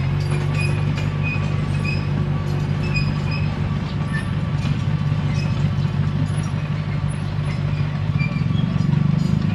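Komatsu D21P bulldozer's diesel engine running steadily as the dozer works, with short high squeaks scattered throughout. The engine note rises and gets louder near the end.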